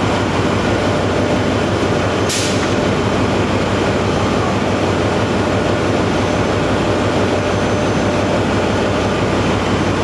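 Marine diesel generator running steadily, a loud constant din with a low hum. There is a brief hiss about two seconds in.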